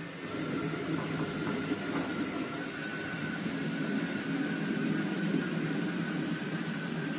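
iRobot Roomba Plus 405 Combo robot vacuum-mop running: a steady motor and brush noise with a faint high whine that creeps slightly upward. It comes up in level right at the start.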